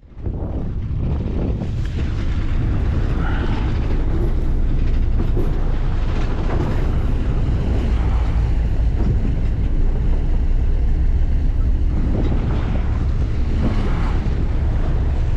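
Steady low rumble of a deep-sea fishing boat's engine running, with wind buffeting the microphone.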